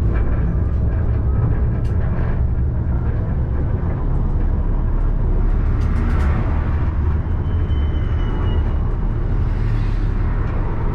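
Alstom Citadis tram running along its track, heard from the driver's cab: a steady low rumble with scattered clicks. A faint high whistle sounds for about a second, a little past the middle.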